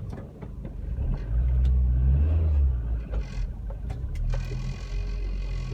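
Rover 25 GSi's engine running with a low rumble that swells and rises briefly about a second in, then settles back.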